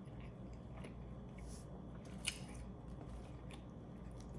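A person chewing a mouthful of burger: soft, wet mouth clicks, with one sharper click about two seconds in.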